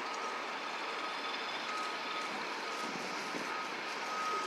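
A high electronic beep repeating on and off over steady city street traffic noise.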